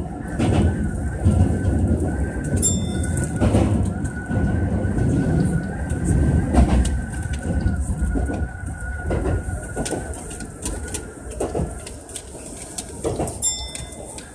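Electric commuter train running, heard from the driver's cab: a steady low rumble with irregular knocks from the wheels over rail joints and points, and a thin steady whine. Two brief high chirps, about three seconds in and near the end.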